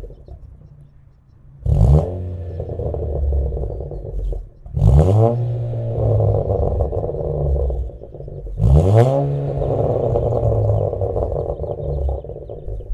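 11th-gen Civic Si / Integra 1.5-litre turbo four-cylinder through an ARK Performance DT-S exhaust with a catted downpipe. The engine is quiet at first, then revved three times, each rev climbing quickly and holding steady for a few seconds before dropping.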